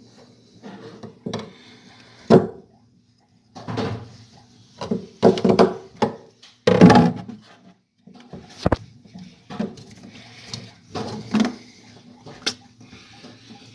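Irregular knocks and clunks of hand work on a refrigerator, parts and tools being handled, over a faint low steady hum.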